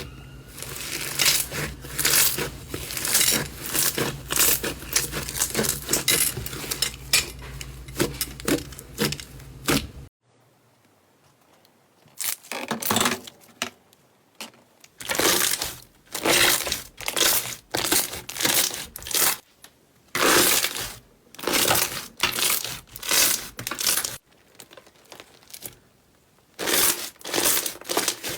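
Slime being squeezed and pressed by hand, giving dense crackling, crinkling crunches. About a third of the way in it goes nearly quiet for a few seconds. Then it becomes a run of short, separate crunchy squeezes, about two a second.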